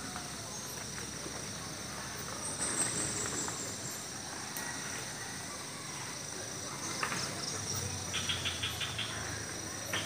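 Countryside dawn ambience: crickets trilling steadily with a high, thin tone, and birds calling over them. A high falling trill comes about two and a half seconds in, and a quick run of chirps comes near the end.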